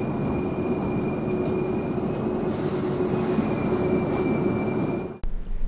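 Hankyu 8000-series train rolling slowly through the tunnel into the terminal's turnback track, heard from just behind the driver's cab. A steady rumble carries a thin high whine and a lower hum. It cuts off suddenly near the end.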